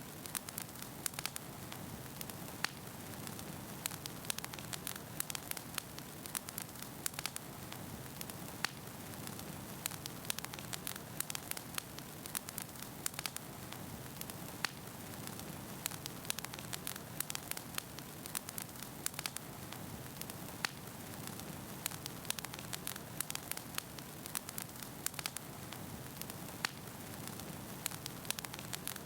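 Wood fire burning steadily in a fireplace, with a constant low rushing hiss and frequent irregular sharp crackles and pops from the burning logs.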